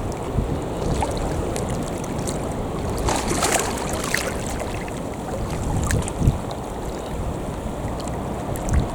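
Wind buffeting the microphone, with a few gusty thumps, over waves washing at the shoreline.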